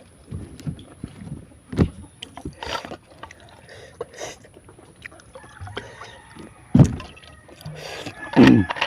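Close-up eating sounds of a pork and bamboo shoot meal: wet chewing and slurping with scattered clicks and a few louder knocks. Near the end a rooster crows in the background, its call falling in pitch.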